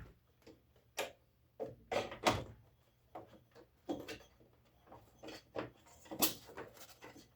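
Irregular knocks, clicks and rustling of packing foam and parts being handled while a new planer is unpacked, with the loudest knocks about two seconds in and near the six-second mark.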